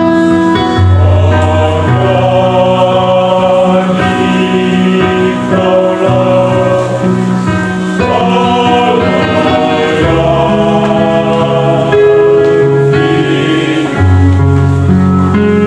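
Gospel song sung by a vocal group in close harmony, with sustained bass notes that change every second or two.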